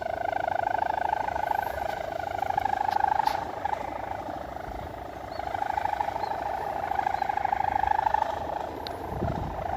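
Steady buzzing hum from a large flying kite in strong wind, a fast-fluttering tone that swells and fades every few seconds. A low thump comes near the end.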